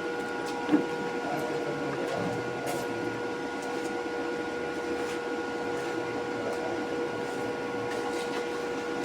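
A machine running steadily: a constant hum carrying a whine of several fixed tones, with a single sharp knock about a second in.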